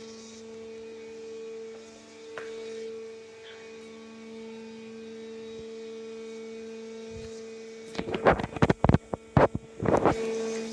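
A steady electrical hum made of several held tones, broken about eight seconds in by a couple of seconds of loud, sharp knocks and clatter.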